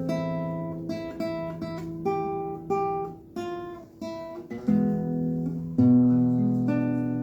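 Acoustic guitar played as an instrumental passage between sung lines. It is a run of single plucked notes that each ring and fade, then fuller strummed chords with a deeper bass note about six seconds in.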